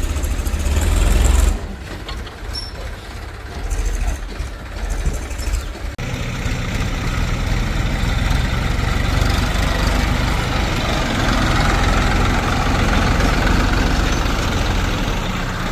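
Heavy diesel machinery engines running: loudest in the first second and a half, then uneven, then changing suddenly about six seconds in to a steady, fuller engine sound.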